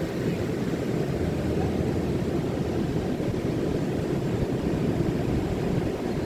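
Ocean surf: a steady low rumble of waves breaking on the beach.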